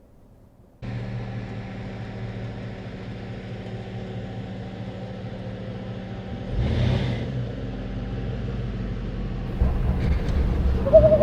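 A 4x4 truck's engine running steadily as it drives the dirt trail, cutting in suddenly about a second in. It gets louder and rougher about two-thirds of the way through, with rumbling from the rough ground.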